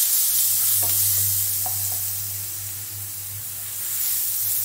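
Ground onion, cumin and coriander paste sizzling in hot oil in a non-stick pan as a spatula stirs and sautés it. Light taps of the spatula on the pan come about one and two seconds in. The sizzle eases slightly midway and picks up again near the end, over a steady low hum.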